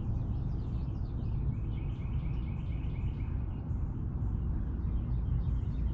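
A dense chorus of rapid high chirps from night-calling animals, with a fast trill from about a second and a half in to about four seconds, over a steady low rumble.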